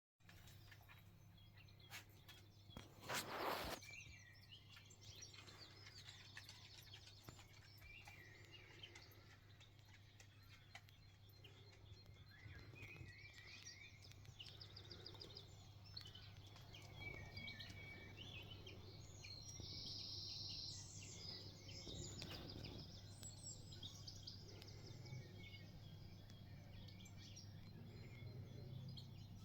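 Faint morning birdsong from several small birds, short chirps and warbled phrases coming and going. A brief loud burst of noise about three seconds in, over a low steady hum.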